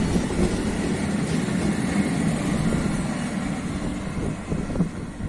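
Freight train of silo hopper wagons rolling past: a steady rumble of steel wheels on the rails that gradually eases off, with a few sharp knocks near the end.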